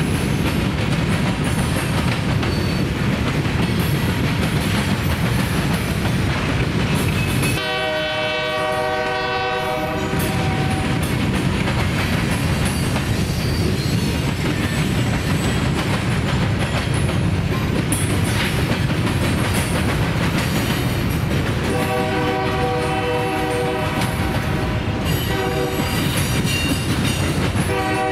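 Freight cars rolling past with a steady rumble and wheel clatter. A locomotive horn blows a blast about eight seconds in, then near the end a long blast, a short one and another long one.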